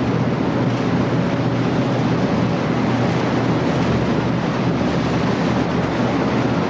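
Patrol boat's engines running in a steady, unbroken drone, with the rush of water and wind over it.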